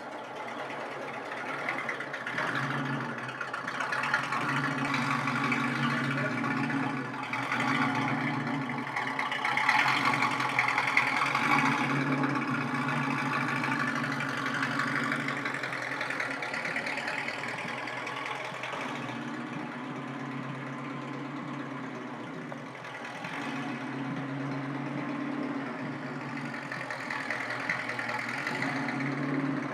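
Vintage inline eight-cylinder engine running as the car is driven, its note swelling and easing off several times with the throttle.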